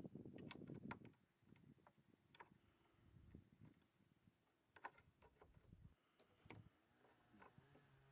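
Faint, scattered knocks and clicks over a steady high hiss, with a brief low hum near the end.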